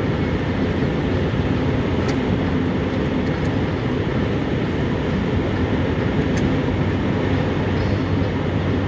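BNSF intermodal freight train passing: a loud, steady rumble of steel wheels on rail, with a couple of faint clicks.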